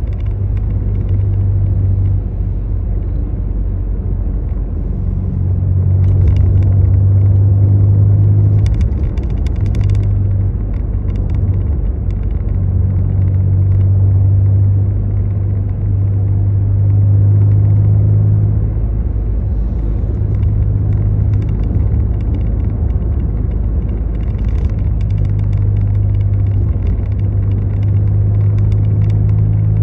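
Steady low rumble of a running motor vehicle. A hum swells and eases every few seconds, with brief faint crackling at times.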